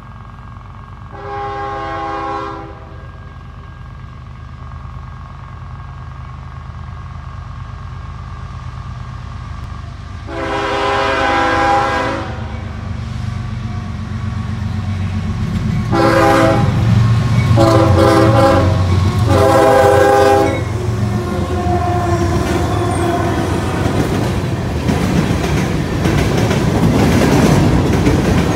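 A CSX freight locomotive's multi-chime air horn sounds for a road crossing: two long blasts, then three shorter ones in quick succession about two-thirds of the way through. Under it, the low rumble of the diesel locomotives grows as the train nears. Near the end the freight cars roll past with a steady clatter of wheels on rail.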